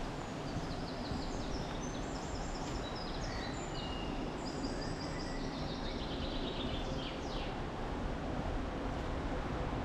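A small songbird singing a rapid, jumbled run of short high notes that stops a couple of seconds before the end, over a steady rushing background.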